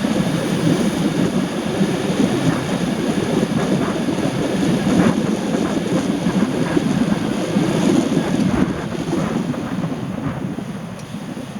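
Steady rushing noise of a car driving in the rain, tyres hissing on the wet road, with a few faint ticks of drops. It eases off near the end.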